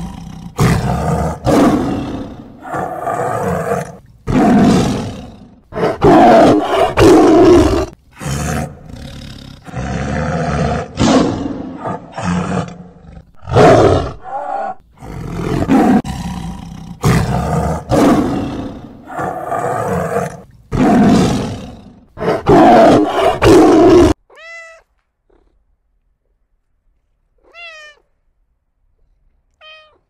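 A tiger roaring over and over, a long series of loud rough calls a second or two apart, which stop about 24 seconds in.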